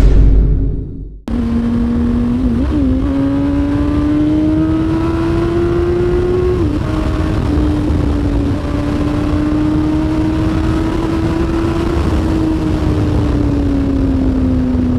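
2006 Yamaha R1's inline-four engine running at a steady pitch while riding, its note drifting slowly up and down with a steady rush of wind noise. A loud, deep sound cuts off about a second in, just before the engine comes in.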